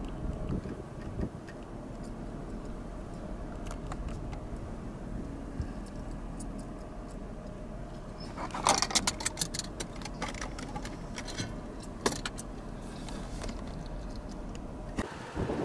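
Steady low hum of a vehicle's engine running, heard from in or beside the vehicle, with a burst of clicks and rattles about eight and a half seconds in and one sharp click a few seconds later.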